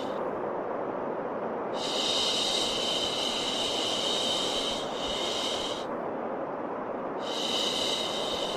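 Steady white noise with long "shhh" shushing sounds over it, played to calm a crying baby. One shush lasts about four seconds, and another begins about seven seconds in.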